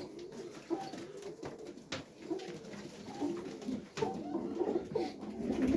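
Domestic highflyer pigeons cooing in a small loft, overlapping wavering coos throughout, with two sharp clicks about two and four seconds in.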